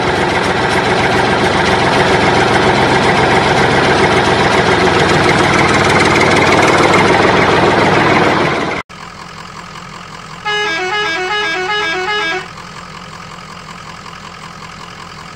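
A loud, steady horn sound that stops abruptly about nine seconds in. A quieter hum follows, with a short electronic beeping tune repeating several times near the middle.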